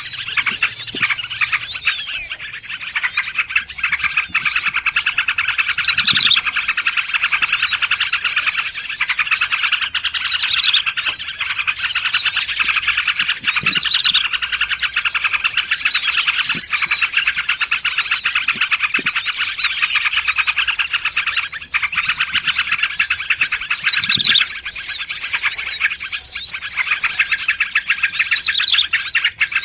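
A dense, continuous chorus of small songbirds chirping and trilling over one another, with many overlapping quick notes: a layered bird-lure track of yellow-vented bulbul (trucukan) calls mixed with prinia and other small forest birds.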